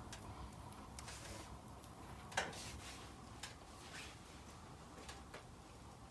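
Firewood crackling as it burns in a Jøtul F3 cast-iron wood stove: faint, scattered pops, the loudest about two and a half seconds in.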